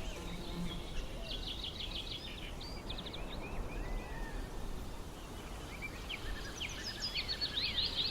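Small songbirds chirping, with a quick run of trilled notes about a second and a half in and dense chirping again from about two-thirds of the way through, over a steady low outdoor background noise.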